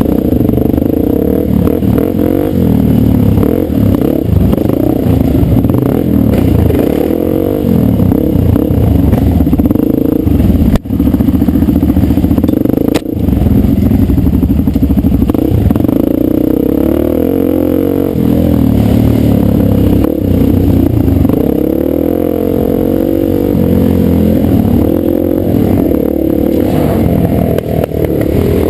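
Dirt bike engine running loud as the bike is ridden, its revs rising and falling, with two brief dropouts near the middle.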